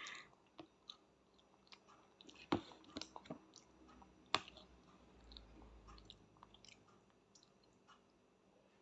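A young child chewing and eating pasta with chicken, faint mouth sounds with scattered soft clicks and two sharper clicks about two and a half and four and a half seconds in.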